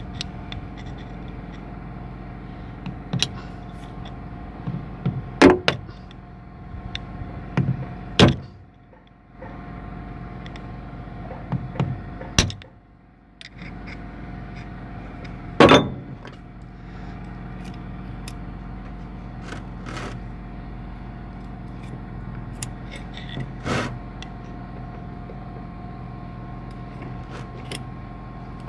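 Hand work on excavator swing-motor parts: scattered sharp metallic knocks and clanks, the loudest a few seconds in, about halfway and near the three-quarter mark, over a steady mechanical hum.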